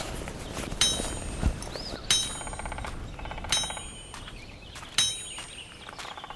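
Metal being struck with a hammer: four ringing clangs, evenly spaced about a second and a half apart.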